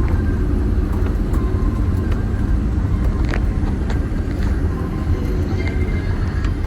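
Steady low rumble in the cabin of a Boeing 787-8 taxiing after landing, with a few faint clicks.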